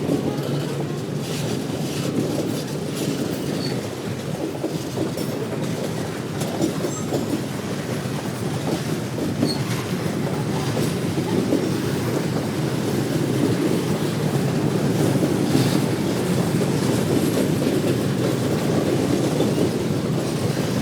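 A train rolling steadily past, its wheels clacking over the rail joints with a continuous rumble.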